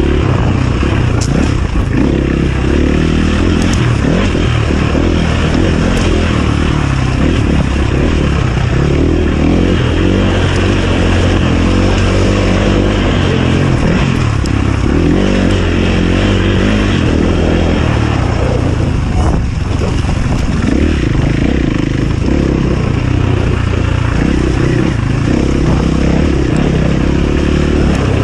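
Enduro dirt bike engine running loud, its revs rising and falling again and again, with a few sharp knocks.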